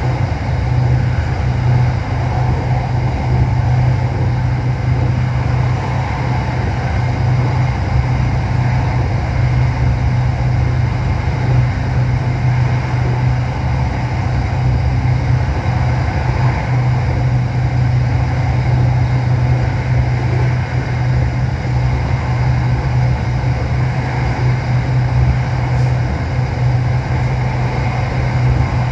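Steady running noise heard inside the carriage of a moving SRT Red Line electric commuter train, with a strong constant low hum under an even rushing noise.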